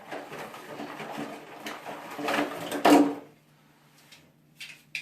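Packaging and leftover parts being rustled and gathered up by hand, with a sharp knock about three seconds in, then two faint clicks near the end.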